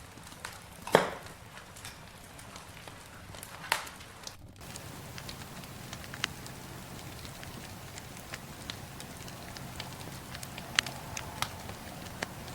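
Wood campfire crackling, with scattered sharp pops and snaps; the loudest pop comes about a second in. Just before halfway the sound briefly drops out, then goes on with a low steady rumble under smaller pops.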